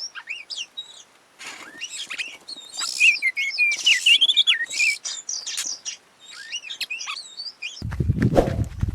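Oriental magpie-robin (kacer) singing a varied song of quick whistles, chirps and sliding notes. Near the end a low rumbling noise comes in suddenly.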